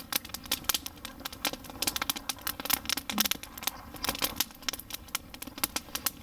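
Hot wood campfire crackling: sharp, irregular snaps several times a second over a low hiss.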